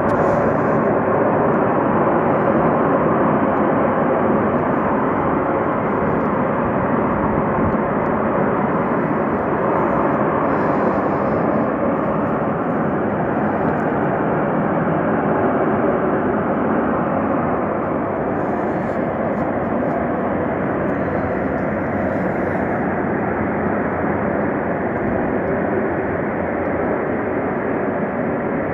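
Steam venting under pressure from the boilers of Kirov's CHP-4 combined heat and power plant: a loud, steady roar that eases slightly about two-thirds of the way through.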